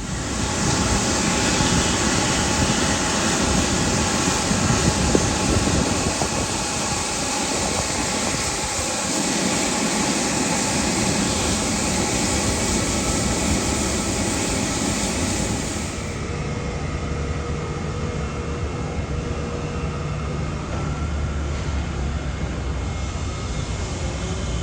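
Jet airliner engines running loud and close, a steady roar with a whine of many held tones. It cuts in suddenly at the start, and about two-thirds of the way through the high hiss drops away abruptly while the engine roar goes on.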